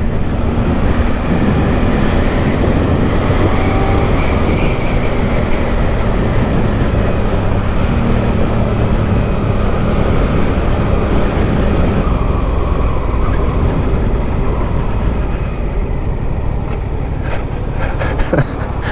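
Motorcycle ridden along at a steady pace: a constant engine drone mixed with a dense rush of wind noise on the microphone.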